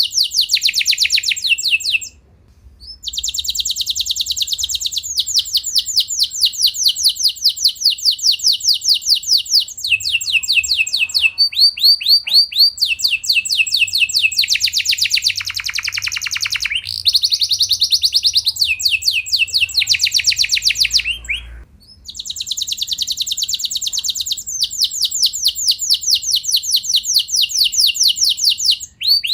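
Domestic canary singing long rolling trills: fast runs of rapidly repeated high notes, each tour held for a few seconds before switching to another. There are two short breaks, one about two seconds in and one about three-quarters of the way through.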